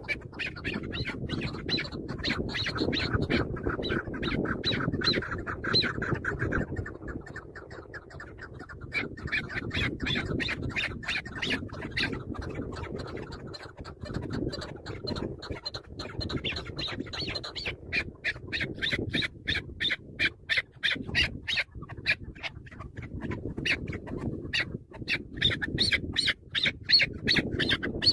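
Chukar partridge calling: a fast, continuous run of short, repeated clucking calls, several a second, over a low rumble.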